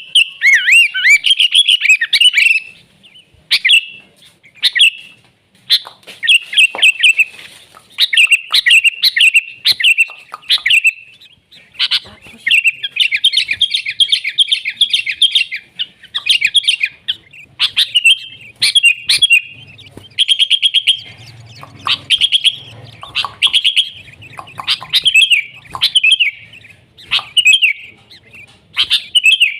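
Sooty-headed bulbul calling, a loud run of short chirpy phrases and quick trills repeated every second or two.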